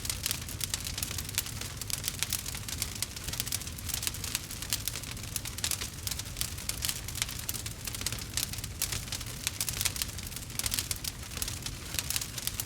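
Campfire crackling: dense, irregular small pops and snaps, many a second, over a low steady rumble.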